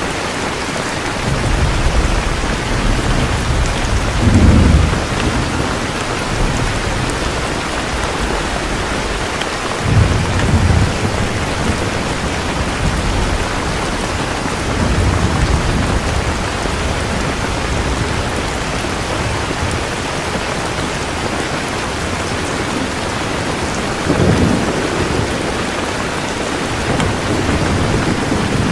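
Steady heavy rain, with deep rolls of thunder rumbling up several times, the strongest about four seconds in, about ten seconds in and about twenty-four seconds in.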